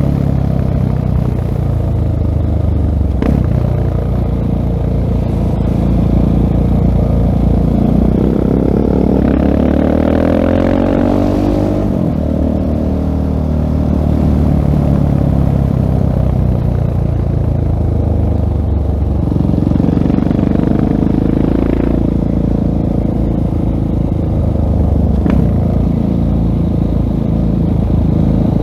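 2016 Husqvarna 701 Supermoto's single-cylinder engine running through a LeoVince full-system exhaust, heard on board while riding, its revs repeatedly climbing and dropping.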